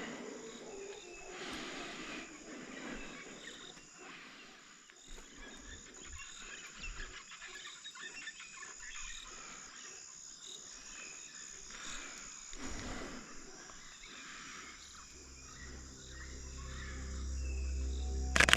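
Tropical rainforest dawn ambience: a steady high insect drone with scattered bird calls, and the low roaring of howler monkeys. Music fades in over the last few seconds, with a sharp click just before the end.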